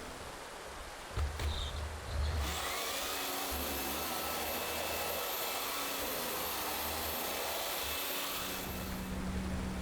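A small electric motor, likely a kitchen appliance, spins up with a rising whine about two seconds in, runs steadily with a high whine and hiss for about six seconds, then stops. A couple of low thumps come just before it starts.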